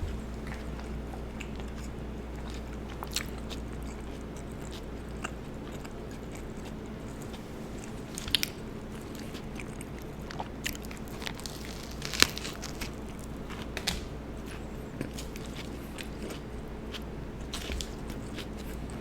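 Close-miked chewing of an Italian sub sandwich: soft mouth sounds with scattered crisp crunches, the loudest about eight and twelve seconds in, over a steady low hum.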